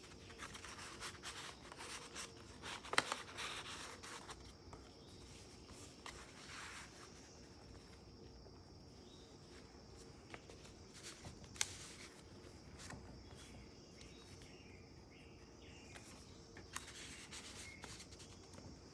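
Pages of a handmade junk journal being handled and turned: soft paper rustling with a few sharp taps and clicks, over a faint steady high-pitched tone.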